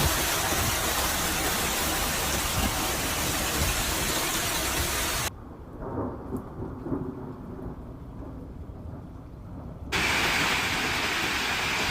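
Heavy downpour of rain and hail, a dense steady hiss. About five seconds in it drops to a quieter, muffled stretch, and the full downpour returns near the end.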